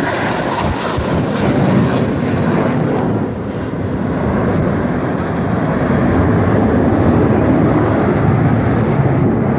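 Jet aircraft flying past, a loud steady roar whose highest tones fade away after about seven seconds as it moves off.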